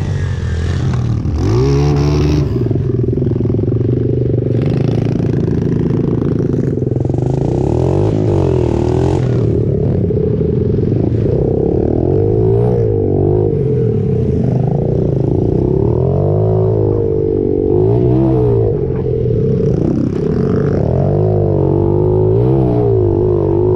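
Pit bike engine running hard and being revved up and down over and over as it is ridden, its pitch rising and falling every second or two.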